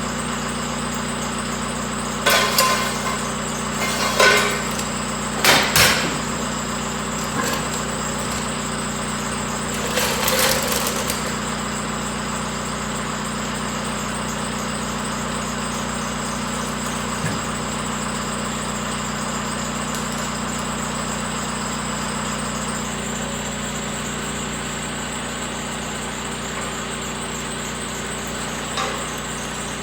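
An engine idling steadily, with a handful of sharp metal knocks and bangs in the first ten seconds or so and one more faint knock near the end.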